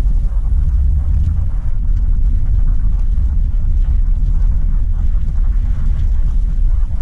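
Car driving, with a loud, steady low rumble of road and engine noise.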